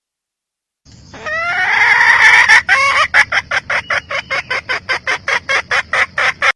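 Red junglefowl hen calling: a drawn-out squawk rising in pitch about a second in, then a fast run of sharp clucks, about five or six a second.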